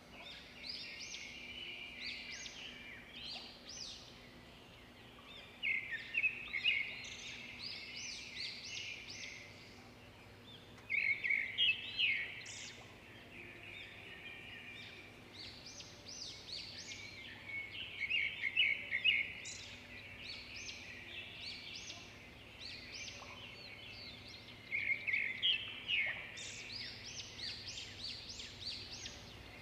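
Birds chirping and twittering in bursts of rapid, high chirps every few seconds, over a faint steady hum.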